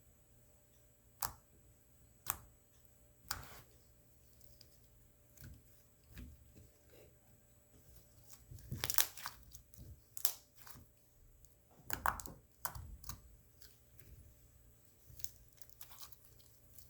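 Slime being squished and stretched by hand: irregular sticky clicks and crackles, busiest about nine and twelve seconds in.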